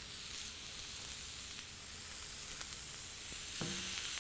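Sliced onions sizzling in hot oil on a flat-top griddle, a steady hiss with a few faint crackles. Near the end, raw ground beef patties go down onto the griddle and the sizzle grows a little louder.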